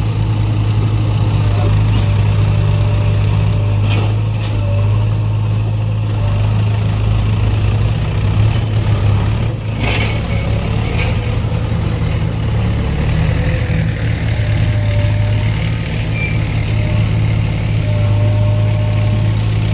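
Heavy diesel engine running steadily with a deep, even note, with a few sharp metallic knocks about 4 and 10 seconds in.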